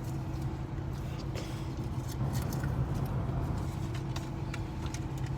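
Steady low hum and blower noise of a parked car idling with its air conditioning running, heard from inside the cabin.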